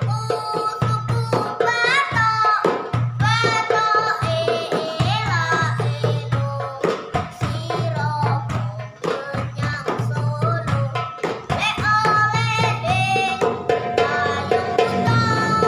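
A boy singing sholawat in a high, ornamented voice, accompanied by rebana frame drums in the banjari style, with sharp slaps and deep bass strokes in a steady repeating rhythm.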